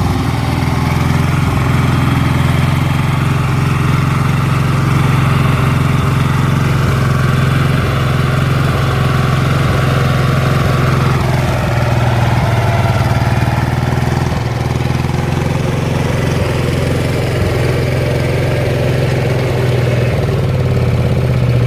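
Valpadana 4RM 180 mini tractor's diesel engine running steadily, its tone shifting slightly about eleven seconds in.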